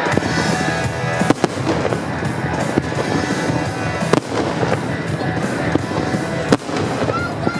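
Fireworks going off in a dense, continuous crackle, with four sharper bangs standing out a second or two apart, over music.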